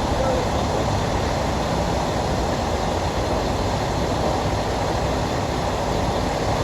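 Truck's diesel engine running steadily, an even mechanical noise with no changes in pitch or level.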